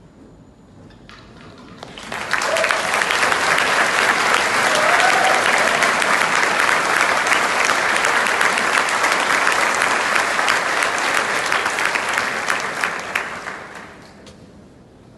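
Concert audience applauding, the clapping swelling quickly about two seconds in, holding steady, and dying away near the end.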